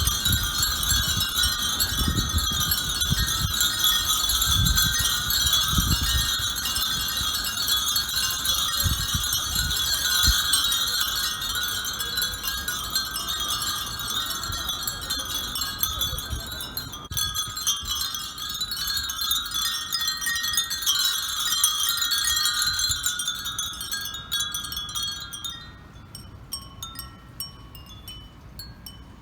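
Many Japanese furin wind bells ringing together in the breeze, a dense continuous tinkling that thins to a few separate rings in the last few seconds.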